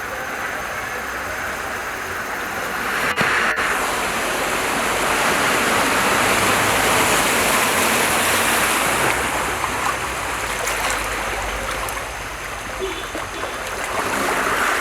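Rushing floodwater: a steady noisy wash that swells about three seconds in and again near the end, with two sharp clicks about three seconds in.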